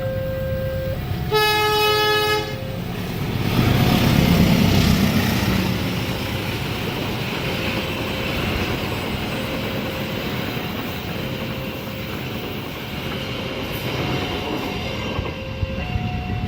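Railway level-crossing warning alarm alternating between two tones, with a train horn sounding once for about a second near the start. A train then runs through the crossing, loudest about four to five seconds in, its passing noise continuing under the alarm.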